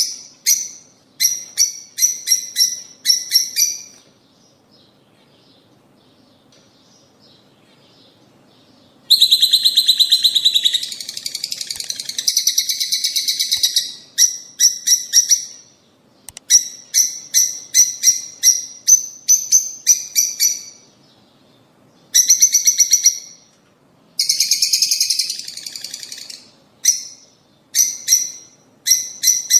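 Lovebirds calling in quick runs of sharp, shrill chirps, in bursts separated by short gaps. After the first few seconds there is a lull of about five seconds, followed by a dense stretch of overlapping chatter and more chirp runs.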